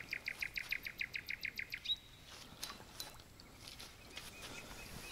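A bird trilling: a rapid run of high notes, about ten a second, for about two seconds, followed by a few faint chirps and light clicks.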